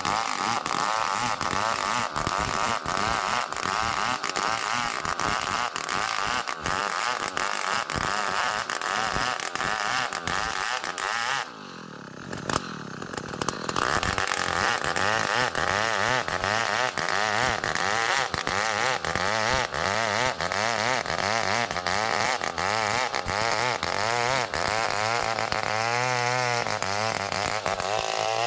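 Two-stroke chainsaw running at high revs, ripping a small Bornean ironwood (ulin) log lengthwise into a beam. Near the middle the saw drops off for about two seconds, then revs back up, and near the end its pitch wavers as it works through the cut.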